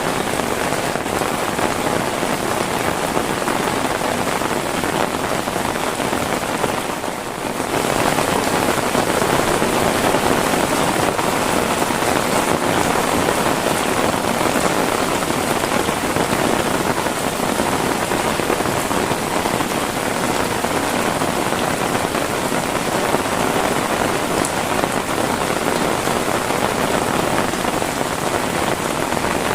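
Heavy rain falling steadily in a dense hiss of drops. It dips briefly about seven seconds in, then carries on a little louder.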